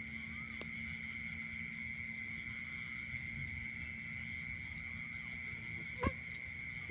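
Steady chorus of night insects: a continuous high-pitched trill with a second, higher pulsing tone above it and a low steady hum beneath. Two sharp clicks come close together near the end.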